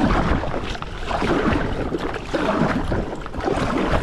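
Sea water splashing and slapping against a stand-up paddleboard in surges about a second apart.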